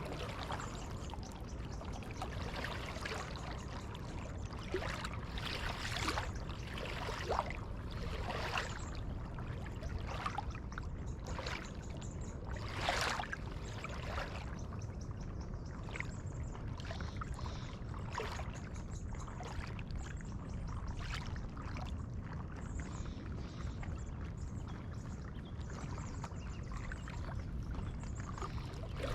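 Kayak paddle strokes: the blade dipping and pulling through the water with splashes and drips, one every second or two, over a steady low rumble.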